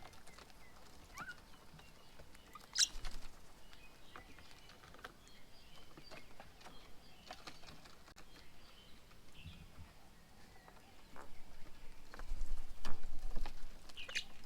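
Small birds at a feeding table: scattered short chirps and light tapping, with a sharper call about three seconds in and another near the end. A low rumble comes in during the last few seconds.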